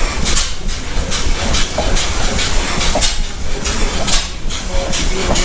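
Vintage engine running, its exhaust giving hissing puffs about once a second over a low rumble.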